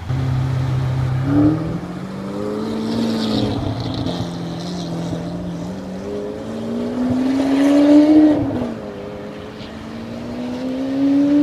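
Lamborghini Aventador's V12 engine revving: its pitch climbs and drops back several times, highest at about eight seconds and again near the end.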